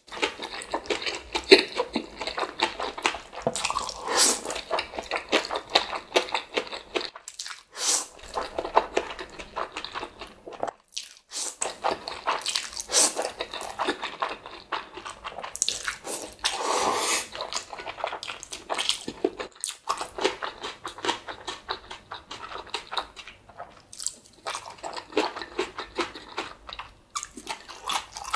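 Close-miked eating: biting and chewing mouthfuls of Chapagetti black bean instant noodles and spicy green-onion kimchi. There are wet clicks and smacks throughout, louder moments every few seconds and brief pauses between mouthfuls.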